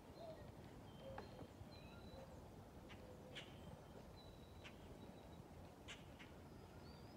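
Faint outdoor ambience with scattered short bird chirps and whistles and a few brief sharp ticks over a steady low background hum.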